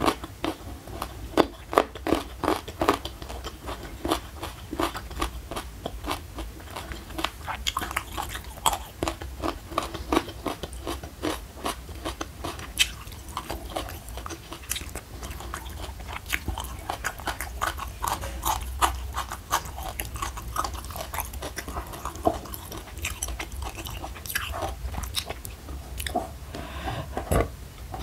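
A person chewing crunchy food close to the microphone: an irregular run of crisp crunches and wet mouth sounds.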